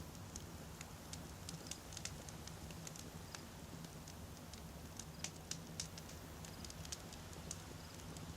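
Wood campfire burning, with frequent small irregular crackles and pops of the burning logs over a faint low steady rumble of the flames.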